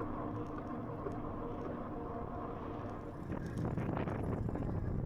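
E-bike riding noise: tyres rolling on the trail and wind on the microphone, with a faint steady hum underneath. About three seconds in the rumble gets louder and rougher, with scattered clicks and knocks.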